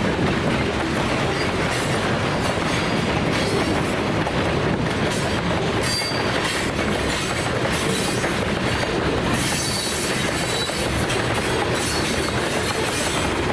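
Freight cars rolling past at low speed, a steady rumble and rattle of steel wheels on rail, with faint high wheel squeal now and then.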